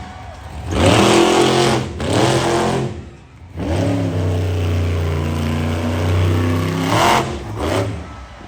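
Monster truck engine revving hard in bursts: two short blasts in the first three seconds, a long held rev of about three seconds, and one more short blip near the end.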